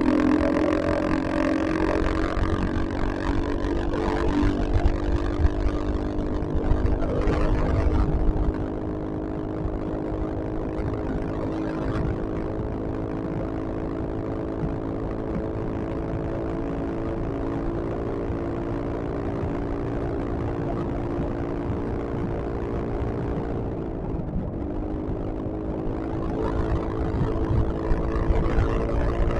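Yamaha XMAX scooter's single-cylinder engine running steadily at cruising speed under low wind rumble. About 24 seconds in, the engine note dips briefly as the throttle eases off, then picks up again.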